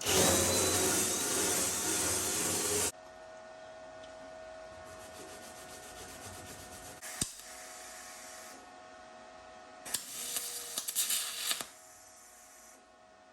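Welding arc on an aluminium boat hull, closing up old transducer holes. It makes a loud, hissing crackle for about three seconds that cuts off abruptly. After that comes a faint steady hum, then a second, shorter crackling burst about ten seconds in.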